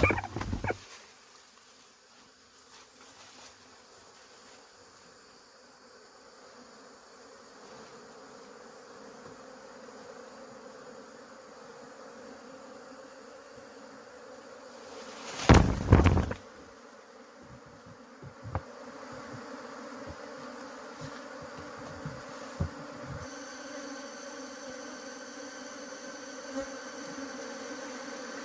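Honey bees buzzing in a steady hum that grows gradually louder, broken about halfway by two loud knocks.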